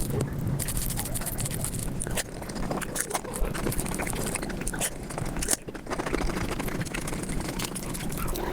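Close-up eating and chewing sounds sped up about five times, turning into a fast, dense patter of wet clicks and smacks.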